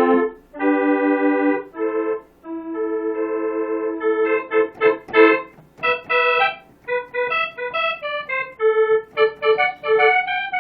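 Korg N364 keyboard playing a layered saxophone patch, a GM soprano sax with a second sax, now transposed down an octave. It opens with a few held chords, then a quick melodic run of short notes.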